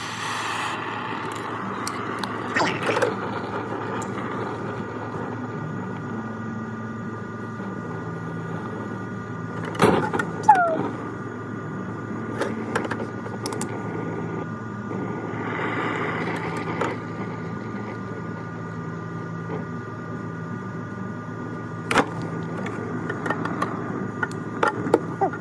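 Scattered clicks, knocks and scrapes of hand tools on metal as a refrigerator compressor's back mounts are worked loose, with a brief squeak about ten seconds in. A steady hum runs underneath.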